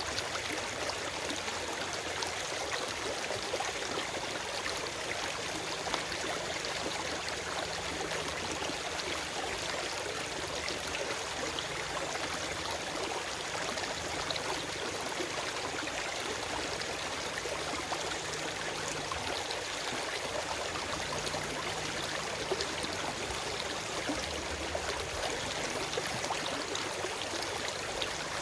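Forest stream running steadily over rocks: a continuous rushing and splashing of water with no birdsong.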